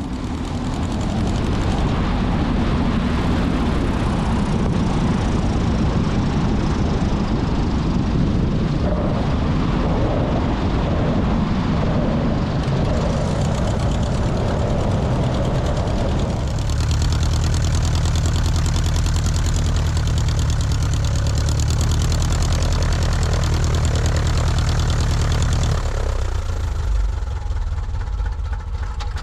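Engine and propeller of a 1941 Aeronca Super Chief light plane running steadily under power. Its note changes about two-thirds of the way through and it eases off near the end as power comes back.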